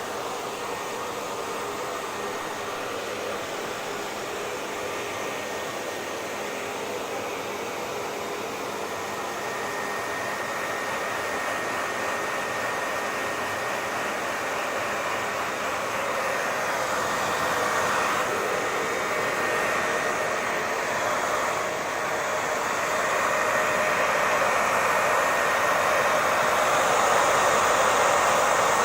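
Hair dryer running continuously: a steady rushing hiss of blown air with a faint motor whine, growing gradually louder over the second half.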